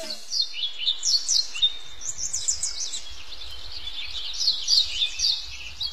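Songbirds chirping and singing in quick, high notes, one after another, with a faint low rumble underneath.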